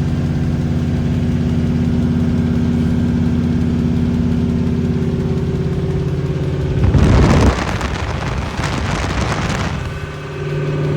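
LS V8 engine in a swapped Audi S4 idling steadily. About seven seconds in comes a loud burst of noise lasting about three seconds, after which the idle returns.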